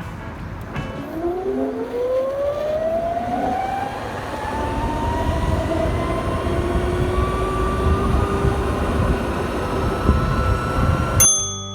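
Ather 450X electric scooter accelerating hard: a motor whine rises steadily in pitch and levels off as speed builds, over a low rush of wind and road noise. It cuts off abruptly near the end.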